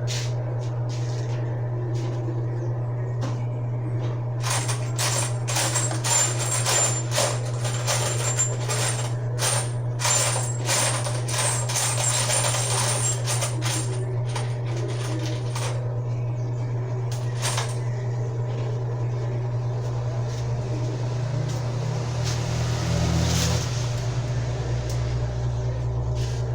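Small metal parts clinking and rattling as they are rummaged through in a box, with a dense run of sharp clinks for about ten seconds and then scattered clicks. A steady low hum runs underneath.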